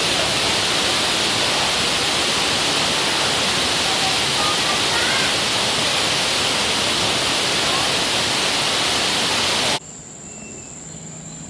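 Rushing water, like a waterfall, makes a loud steady noise that cuts off suddenly near the end. What remains is a faint high steady whine and a few faint chirps.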